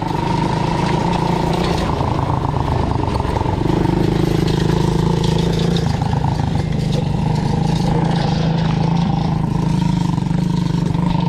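Quad bike engine running steadily while riding, its note shifting slightly a few times.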